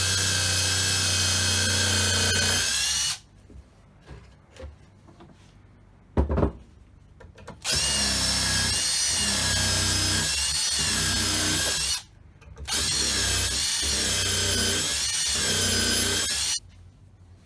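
Homemade disc sander driven by a salvaged treadmill motor, running with a steady high whine in three spells that start and stop abruptly. The pitch wavers slightly in the second and third spells, and a single knock comes about six seconds in.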